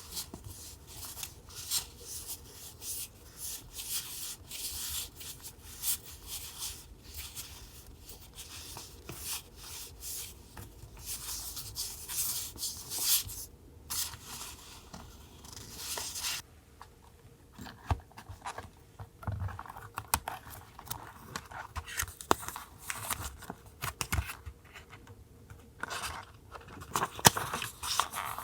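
Paper being worked by hand for a collage journal: quick scratchy rubbing and tearing strokes, quieter after about sixteen seconds, with light crinkling and sharp ticks in the later part.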